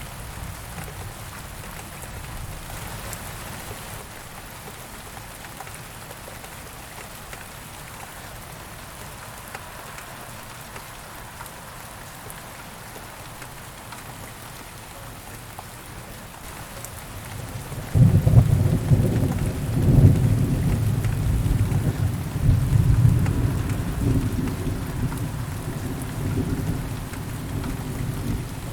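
Steady rain falling through a thunderstorm. About two-thirds of the way in, a loud crack of thunder breaks into a long deep rumble that rolls on and slowly fades.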